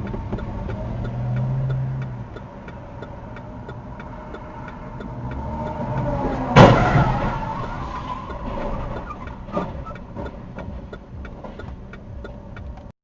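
A car running, with road and engine noise and a faint steady ticking. About six and a half seconds in there is a loud crash of a vehicle collision, whose crunch dies away over a second or so. A smaller knock follows about three seconds later.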